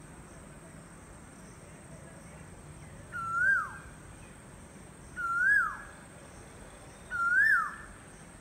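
A bird calls three times, about two seconds apart. Each call is a single clear note that rises a little, then falls steeply.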